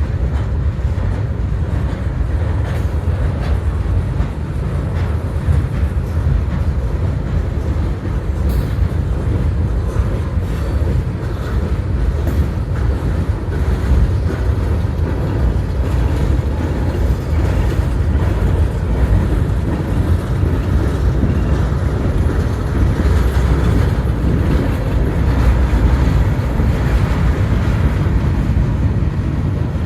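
Freight train cars rolling past: a steady low rumble of steel wheels on rail with occasional faint clicks.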